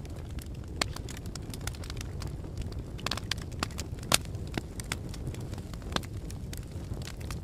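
Fire crackling: irregular sharp pops and snaps over a steady low rumble of flames, with one louder pop about four seconds in.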